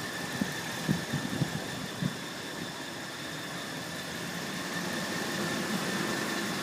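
A 5.7 Hemi V8 idling with a steady high-pitched whine over the engine noise, heard underneath the truck at the exhaust beside the transmission. The whine stays with the accessory belt removed, so it is not the belt or belt-driven parts, and its cause is unknown to the owner. A few soft low thumps come in the first two seconds.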